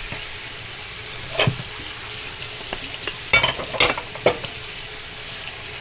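Stir-fry vegetables and pineapple sizzling in hot oil in a frying pan on medium-high heat as their water cooks off, with several sharp knocks and scrapes of a utensil against the pan, one about a second and a half in and a cluster between three and a half and four and a half seconds.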